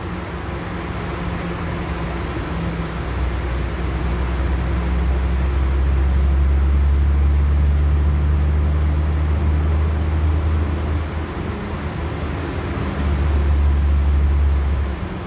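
Diesel engine drone and road noise inside a LiAZ-6213.65 articulated city bus under way. The engine note swells, eases off about two-thirds of the way in, picks up again briefly and drops near the end.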